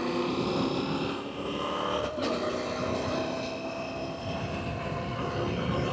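Adventure motorcycle engine running as the bike rides along a loose gravel road, with a sharp knock about two seconds in.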